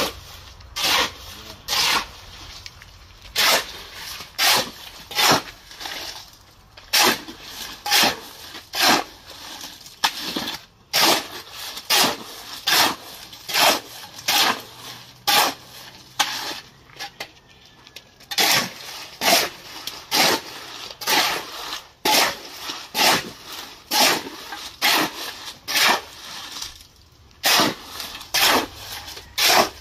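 A shovel scraping through a concrete mix on the ground, hand-mixing it in rhythmic strokes about once a second, with brief pauses now and then.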